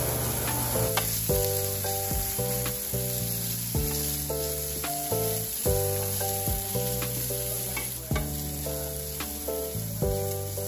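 Diced meat sizzling as it fries in a stainless steel skillet, stirred with a wooden spatula, over background music: a gentle tune of held notes with a bass line.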